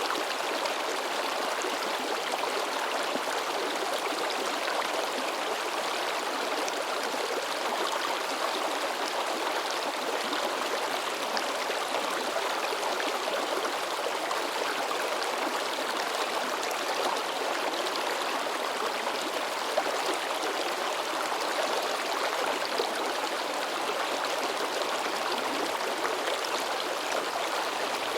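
River babbling and splashing over rocks, a steady rush of water with small splashes throughout.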